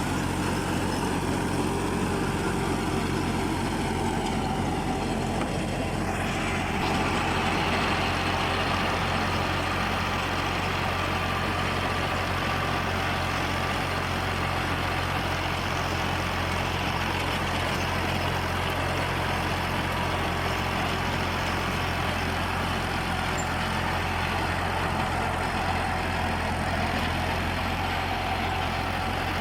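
Fiat 480 tractor's diesel engine running steadily, its note turning harsher and brighter about six seconds in.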